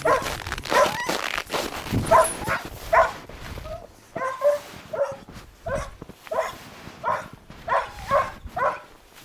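A dog barking over and over in short, sharp barks, about two a second through the second half.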